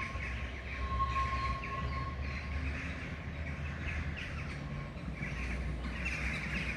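Small birds chirping and twittering over a steady low background rumble, with a thin steady whine that dies away about a second and a half in.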